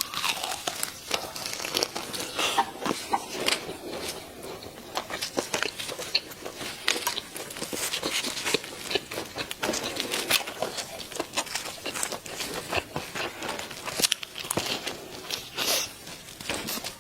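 Chicken being eaten close to the microphone: a dense, irregular run of crisp crunches, crackles and tearing sounds from bites and pieces being pulled apart.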